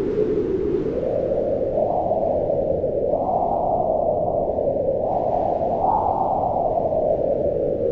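Howling mountain wind: a steady low rushing whose pitch swells up and sinks back in slow gusts about four times.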